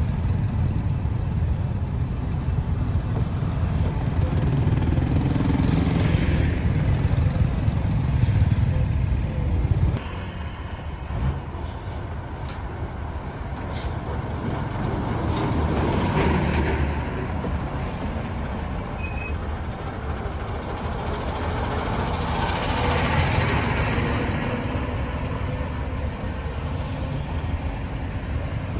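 Road traffic noise: a steady rumble of engines and tyres, with vehicles passing close three times, each swelling and fading. The level drops suddenly about a third of the way in.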